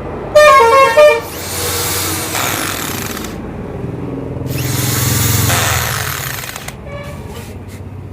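A power tool whirs in two short spells, driving in the nuts and bolts of a motorcycle engine's clutch cover. Near the start a loud horn-like honk sounds twice, and a short honk comes again near the end.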